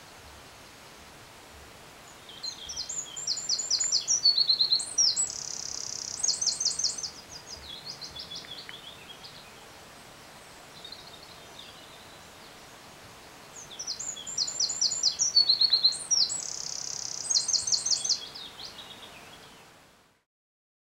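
A songbird singing from a television nature programme: two high, complex song phrases of rapid trills and a buzzy note, each lasting about four or five seconds and separated by a pause, over a faint steady hiss.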